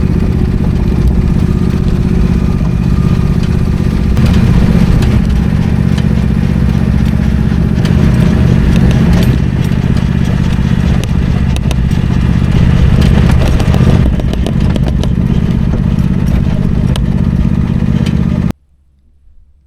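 An engine running steadily and loudly, with a low humming drone and slight wavers in pitch. It cuts off suddenly near the end.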